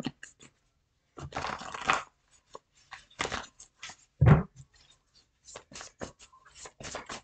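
Tarot cards being handled: a series of short rustles and flicks of card stock, with a louder soft thump about four seconds in.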